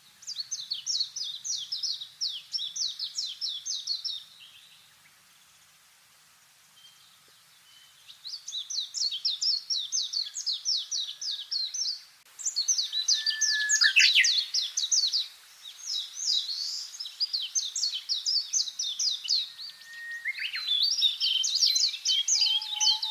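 Songbirds singing in long bouts of rapid, high-pitched, down-slurred notes, with short pauses between bouts.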